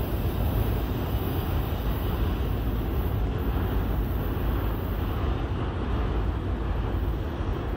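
Steady low rumble of a long freight train of loaded autorack cars rolling away on the rails.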